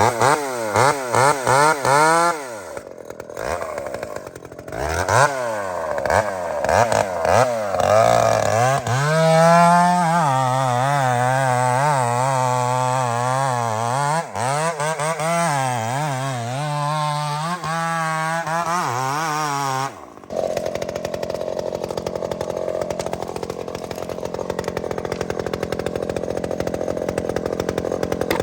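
Gas chainsaw revved in quick bursts, then running at high revs with the pitch wavering under load as it cuts into the tree for about ten seconds. About two-thirds of the way in the revs drop suddenly to a lower, steady running.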